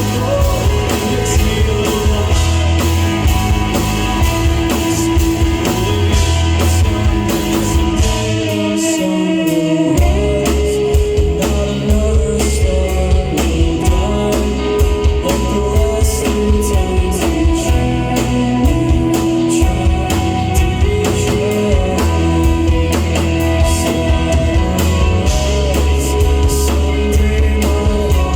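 Live rock band playing loudly: drum kit, electric guitars and bass, with some singing. The bass and kick drum drop out for about two seconds about eight seconds in, then the full band comes back in.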